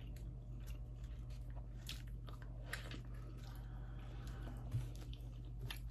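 Close-up eating sounds of a person chewing a McDonald's sausage and egg roll: scattered small wet mouth clicks and smacks.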